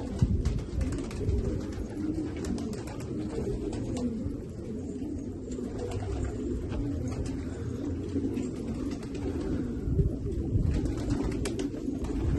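Domestic pigeons cooing continuously in low, overlapping tones, with scattered light clicks.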